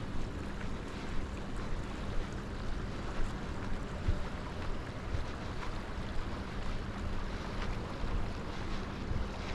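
Wind rumbling on an action camera's microphone during a walk, with low thumps about once a second from the wearer's footsteps and a faint steady hum underneath.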